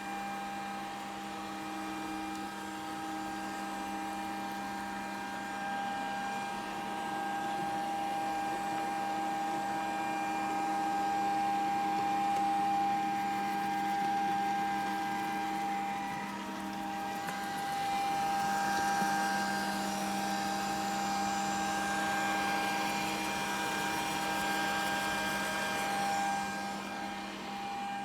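Grundig VCR 2131 robot vacuum cleaner running: a steady motor whine. For a stretch past the middle a hiss of brushing and suction grows over it.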